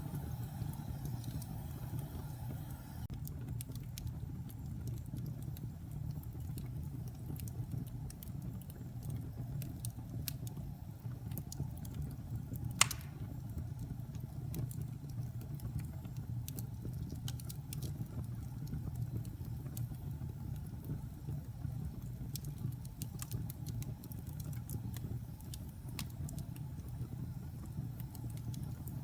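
Wood fire burning in a fireplace: scattered crackles over a steady low rumble, with one sharp, loud pop about 13 seconds in.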